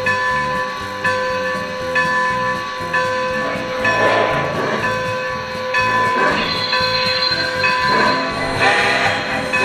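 Model steam locomotive's sound system hissing steam, with three louder puffs of steam about two seconds apart, over background music with held notes.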